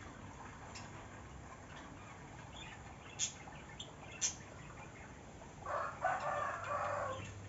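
Chickens: a few sharp ticks, then a loud rough burst of fowl noise lasting about a second and a half near the end.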